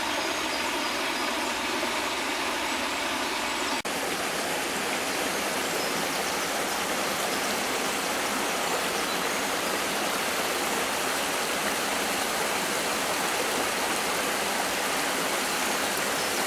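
Steady, even rushing noise like running water or wind, with a brief dip about four seconds in.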